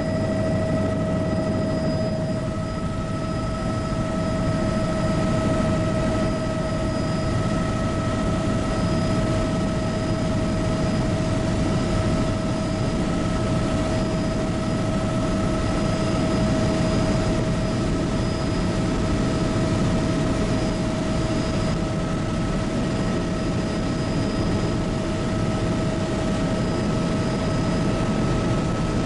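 Bell 206B JetRanger helicopter in steady cruise flight: constant rotor and airframe noise with the Allison 250 turboshaft's steady whine at several pitches over it.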